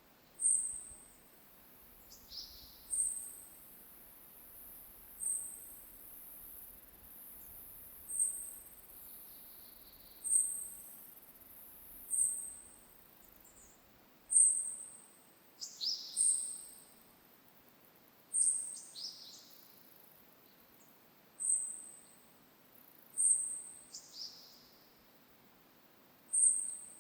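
Birds calling in a forest: a short, very high, thin note repeats about every two seconds. Several lower notes that drop in pitch come in between them.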